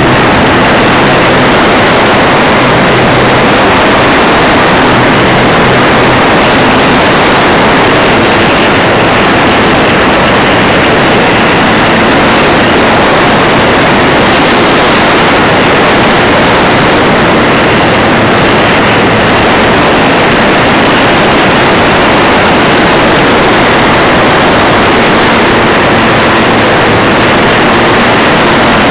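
A model airplane's motor and propeller, picked up by a tiny onboard camera: a loud, steady rushing drone with a faint low hum under it.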